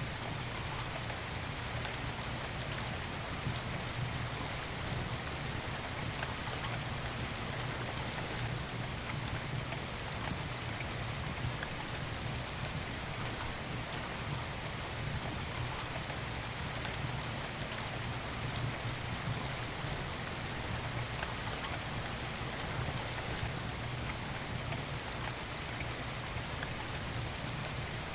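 Steady rain falling, an even hiss with a few faint ticks now and then.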